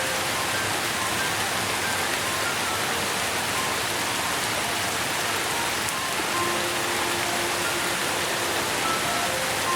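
Steady, dense rainfall with a constant even hiss, overlaid by sparse, soft, sustained musical notes at varying pitches.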